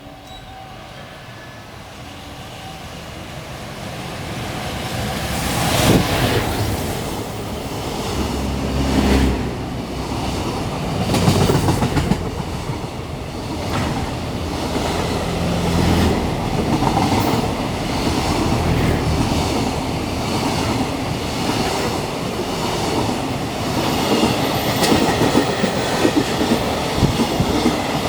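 A freight train approaching and passing. Its noise builds over the first few seconds, then holds loud as the wagons' wheels clack over the rail joints in repeated knocks.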